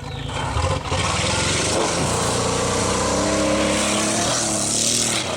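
A vehicle engine running hard, with a loud rushing noise over it. It gets louder about a second in and cuts off suddenly at the end.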